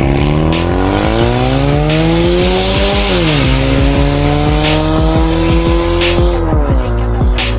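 Ford Mustang 2.3 EcoBoost turbocharged four-cylinder with an XEX aftermarket sport exhaust, accelerating hard. The revs rise for about three seconds, drop sharply at an upshift, rise again, and fall off again a little after six seconds.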